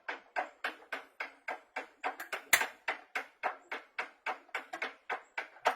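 A fast, even series of sharp knocks or clicks, about three and a half a second, with one louder knock about two and a half seconds in.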